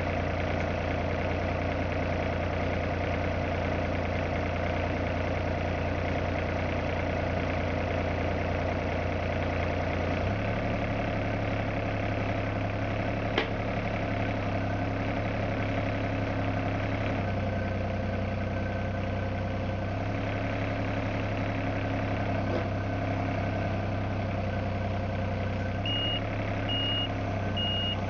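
Engine running steadily at idle, its pitch stepping down about a third of the way in and shifting again later. A single sharp click comes near the middle. Near the end a reversing alarm starts beeping, a little more than one beep a second, as a machine begins to travel.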